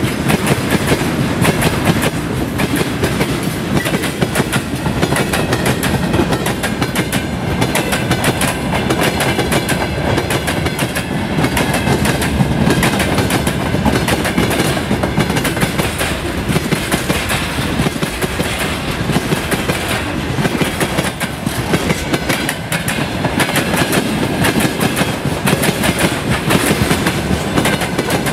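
Freight train wagons rolling past at speed, loud and steady: a rumble with a rapid, continuous clatter of steel wheels on the rails. Tank cars give way to covered hoppers and open gondola wagons as the train goes by.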